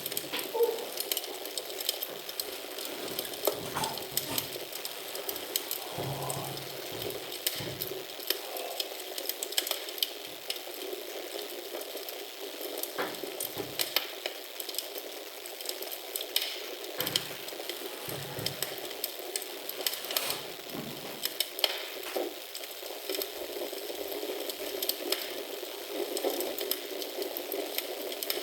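Wood fire in a fireplace crackling steadily, with many small sharp pops over a soft hiss and an occasional low thud.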